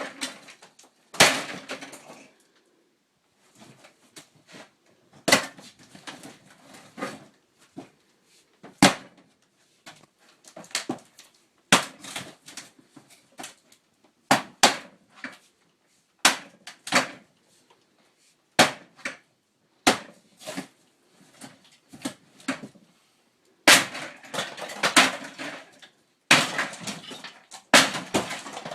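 Repeated heavy blows smashing a camper's bathroom sink, struck every second or few seconds, each one followed by a short clatter of broken pieces. The blows come thicker and faster near the end.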